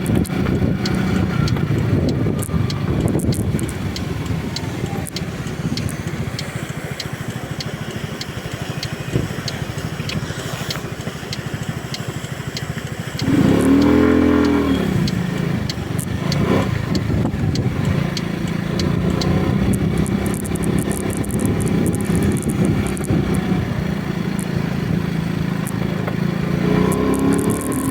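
Road vehicle engine running steadily under way, with road noise. Just past halfway, engine speed briefly rises and falls.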